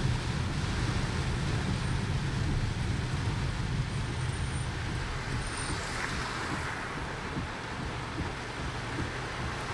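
Steady road and engine rumble inside a car driving through a typhoon downpour, with an even hiss of rain and tyre spray.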